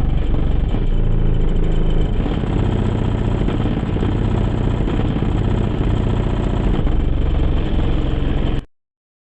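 Car audio subwoofers, driven by a 900-watt amplifier, playing heavy deep bass with some rattle, until it cuts off suddenly near the end.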